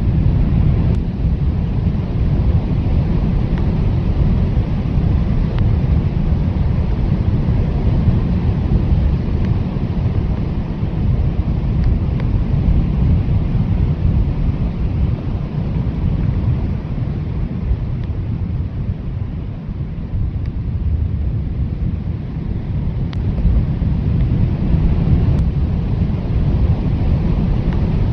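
Blizzard wind blowing hard and steadily, a deep rumble with a hiss above it, easing slightly about two-thirds of the way through.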